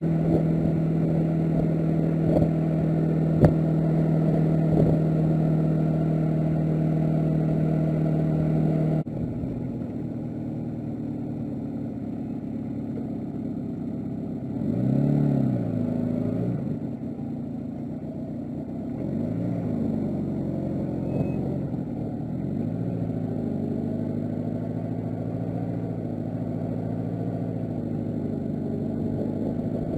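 Honda GL1200 Gold Wing's flat-four engine running steadily at idle; after an abrupt cut about nine seconds in, it runs on with its pitch rising and falling a few times, as when revved or ridden.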